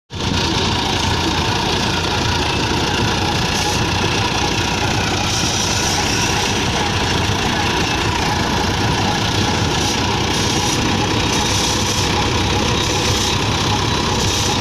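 Small electric motor of a homemade model tractor and water pump running steadily, an even mechanical whirr and rattle.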